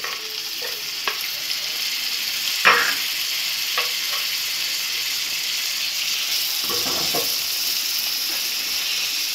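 Chopped tomatoes sizzling steadily in hot gingelly (sesame) oil with onions and garlic in a kadai, with a spatula scraping against the pan a few times; the loudest scrape comes a little under three seconds in.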